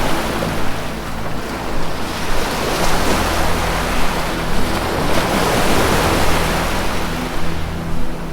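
Ocean waves breaking and washing in, swelling to a peak in the middle and easing off, over a soft, steady low music drone.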